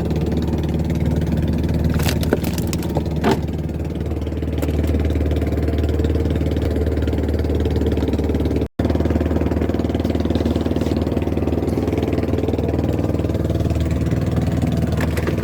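Small engine on a fishing boat running steadily at idle, with a couple of short knocks in the first few seconds; the sound cuts out for an instant about nine seconds in.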